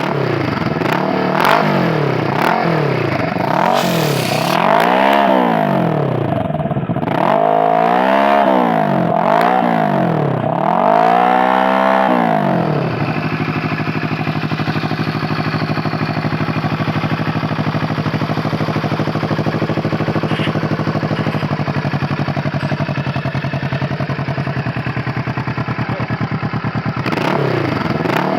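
Kawasaki Vulcan 650 S parallel-twin engine running through a full aftermarket sport exhaust. For the first dozen seconds it is revved in a series of quick throttle blips, each rising and falling. It then settles into a steady idle, and the revs start rising again right at the end.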